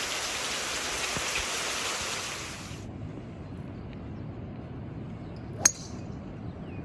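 Heavy rain pouring down, a steady hiss that cuts off abruptly about three seconds in. Then a quieter low rumble, with one sharp click near the end.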